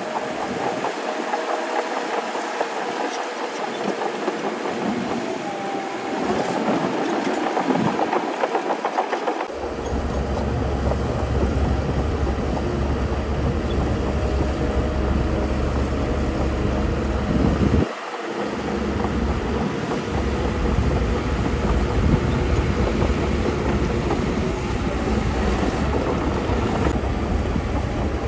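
Heavy diesel earthmoving machinery running steadily. A deep low rumble sets in abruptly about a third of the way through and breaks off briefly about two-thirds of the way through.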